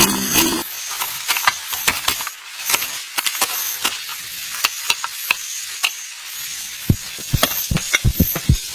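Cooking utensils clicking and tapping irregularly, over a faint high hiss, then a quicker run of heavier knocks about seven seconds in.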